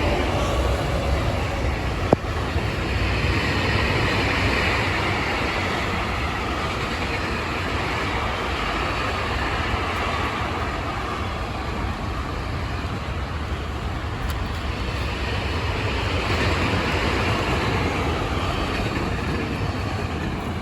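Freight train passing close by, a steady rumble and clatter of wagons over the rails that swells and eases, with a single sharp click about two seconds in.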